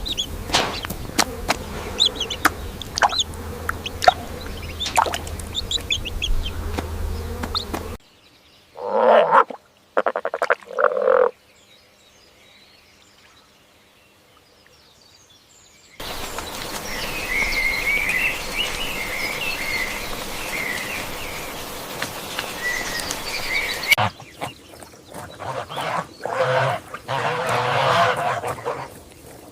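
A sequence of separate animal sound clips, each about eight seconds long. First comes rapid clicking and short chirps. Then two brief calls and a near-silent pause, then continuous high twittering, and near the end another cluster of calls.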